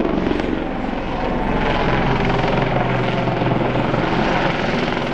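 Westland Lynx HAS3 helicopter passing low in a display, a steady rapid rotor chop over the sound of its twin Rolls-Royce Gem turboshaft engines as it is thrown hard through its manoeuvres.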